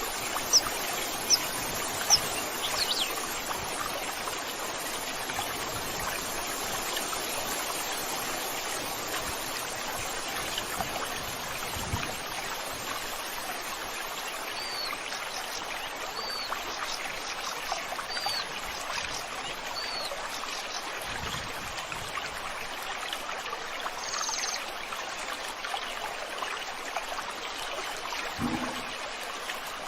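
Steady rush of a flowing stream, with a small bird calling over it: a few sharp chirps near the start, then four short, alike calls about a second and a half apart in the middle, and a brief buzzy note later on. A short low sound is heard near the end.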